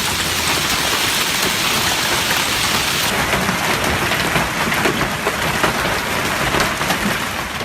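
Hailstorm: hail and heavy rain pelting down, a dense steady clatter of many small hits.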